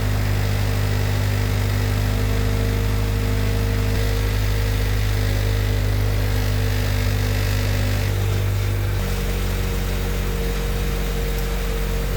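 A car engine idling steadily, its tone shifting a little about eight to nine seconds in.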